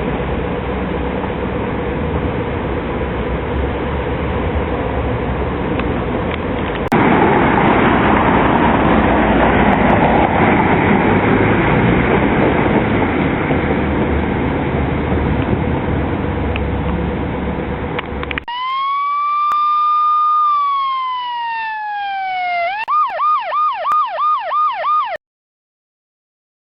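Steady, noisy vehicle sound, louder from about seven seconds in, cuts off to a police car's electronic siren. The siren gives one wail that rises, holds and falls, then switches to a fast yelp of about six quick up-and-down sweeps, and stops suddenly.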